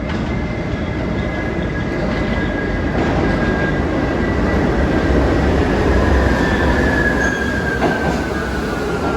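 New York City subway train moving along the platform track, its steel wheels squealing on the rail over a heavy rumble. The squeal is a high tone that slides a little lower near the end, and the rumble is loudest in the middle.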